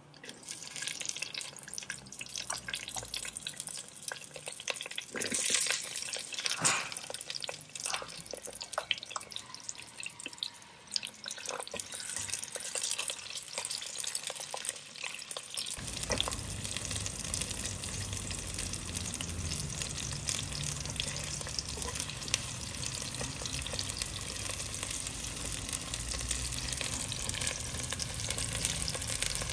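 Food frying in hot oil with stirring. The first half is scattered scrapes and clatter with short sizzles; about halfway through a steady, louder sizzle takes over.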